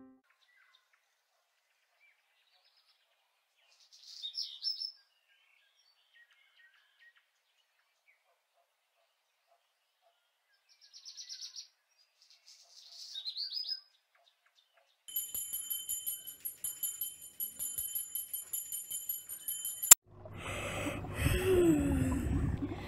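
Birds chirping a few times in short, high, falling calls, then a high pulsing trill for about five seconds. A sharp click comes near the end, followed by the bubbling hiss of an aquarium air stone over a low steady pump hum.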